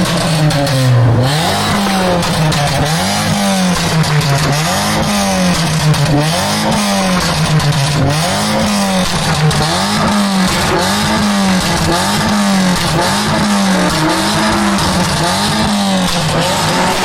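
Modified hatchback engine revved over and over, the note climbing and dropping back roughly every second and a half, with popping and crackling from the exhaust.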